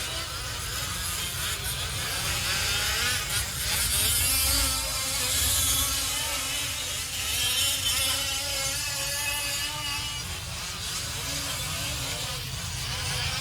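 Several 1/5-scale RC trucks' small two-stroke petrol engines buzzing and revving as they race, their pitches rising and falling and overlapping, over a low rumble.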